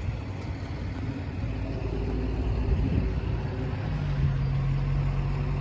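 Car engine idling with a low rumble; a steady low hum comes in about four seconds in.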